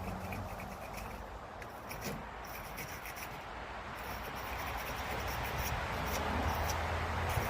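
Car battery post being scraped clean: steady rubbing and scraping with small clicks. A low steady hum comes in during the second half.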